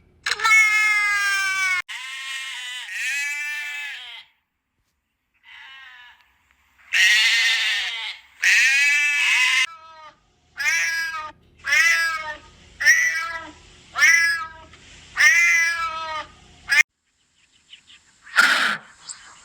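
Domestic cat meowing: a series of about ten meows, each falling in pitch, the later ones short and coming about once a second.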